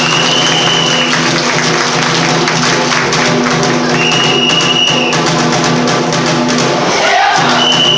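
Bitchu kagura accompaniment music: rapid taiko drumming over a steady low drone. A high piping note is held three times, about a second each.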